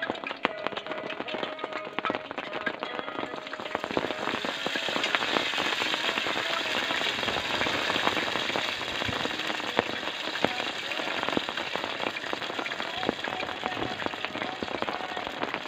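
Rain pattering on a surface as many close, sharp drop hits, thickening into a steady downpour after about four seconds.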